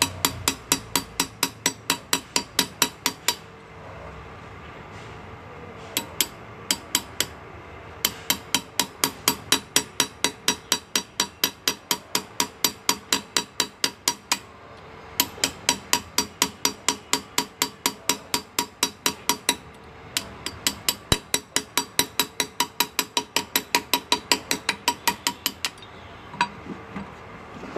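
A hand engraver's chasing hammer tapping a graver through metal: sharp, ringing taps about four to five a second, in runs of several seconds broken by brief pauses.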